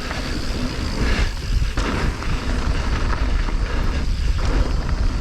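Mountain bike descending a rough trail: a steady low wind rumble on the microphone, with tyre noise over dirt and rock and the bike's rattle coming through as many small knocks.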